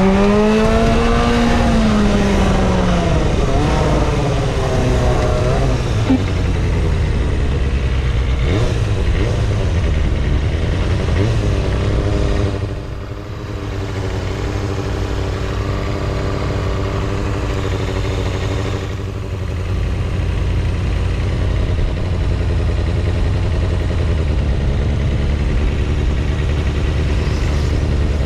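Road vehicle engine revving, its pitch rising and falling over the first few seconds, then running at a steady note over a constant low rumble of road noise.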